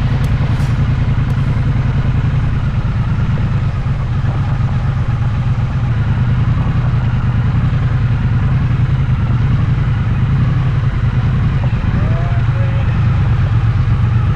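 Triumph motorcycle's parallel-twin engine running steadily at a constant pitch and level.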